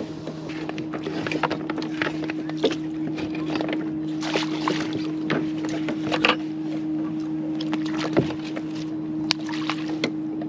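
Electric trolling motor of an Old Town Autopilot 136 kayak humming steadily, with scattered splashes and knocks of water and gear against the hull.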